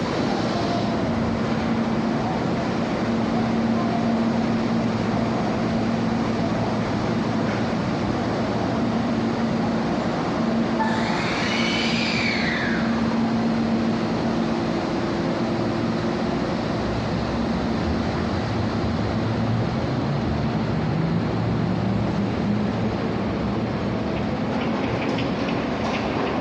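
Hankyu electric train running at the station, a steady rumble of wheels and motors with a steady hum. About halfway a higher whine rises and falls over a couple of seconds, and in the last third the low motor tones climb in pitch.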